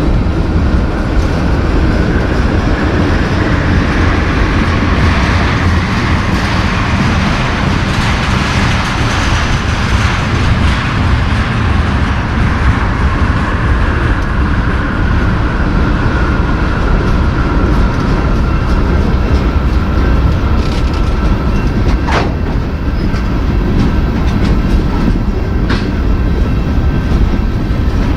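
Freight train rolling past, its wheels clicking over the rail joints in a loud, steady rumble with a faint high steady tone above it. One sharp click about three-quarters of the way through.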